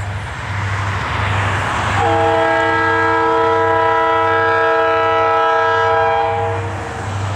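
Diesel locomotive's multi-note air horn sounding one long chord that begins about two seconds in and lasts about five seconds, over the low, pulsing rumble of the passing train.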